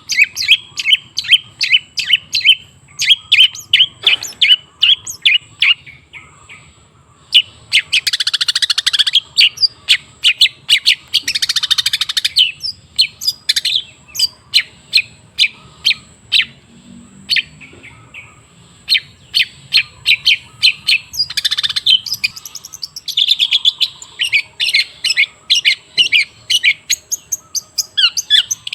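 Long-tailed shrike (cendet) singing: a fast run of sharp, high chirps, several a second, broken by a few harsh rasping trills of about a second each. It is played as a lure song to get other shrikes to sing.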